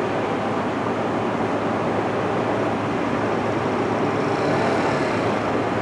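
Steady roadway traffic noise, an even rushing rumble with no distinct events.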